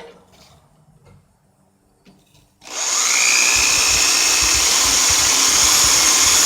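Handheld electric power tool starts about two and a half seconds in with a quick rising whine, then runs steadily at full speed with a high-pitched whine.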